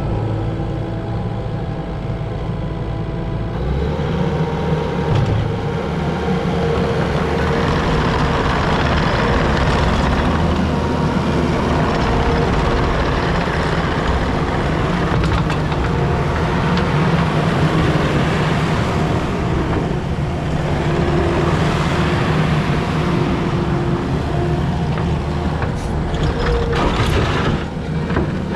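A Takeuchi TL12 tracked skid steer's diesel engine running steadily. It picks up speed and gets louder about three and a half seconds in, then works under varying load, with a few metallic clanks near the end.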